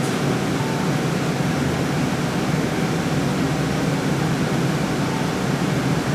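Steady low rumble with hiss: the running noise heard inside a vehicle's cabin.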